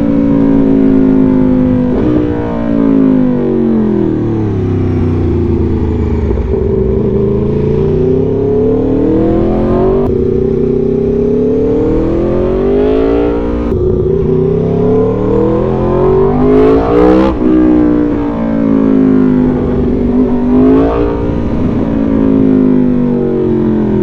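Aprilia Tuono V4 motorcycle's V4 engine under way, its note falling as the bike slows over the first few seconds, then climbing through the revs several times with sharp breaks at the gear changes.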